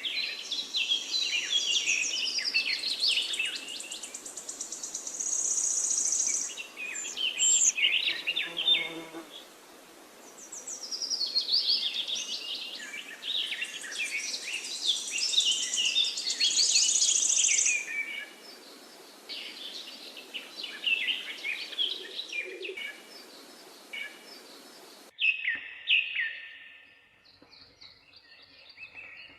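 Several forest songbirds singing and chirping over one another in a dense chorus. About 25 seconds in, the sound cuts off abruptly and gives way to quieter, sparser birdsong.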